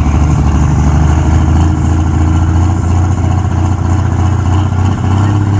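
Heavy engine of a pulling vehicle at a truck and tractor pull, running loud with a steady deep note that rises a little near the end.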